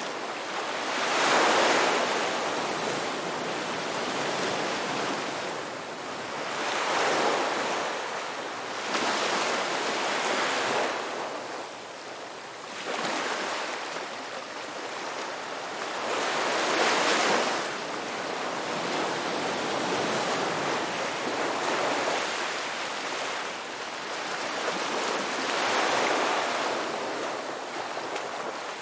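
Ocean waves breaking and washing on a shore, a steady rush of surf that swells with each wave about every four to six seconds.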